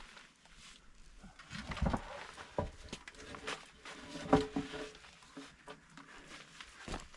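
Scattered light knocks, scrapes and rustles of old lumber being handled and shifted.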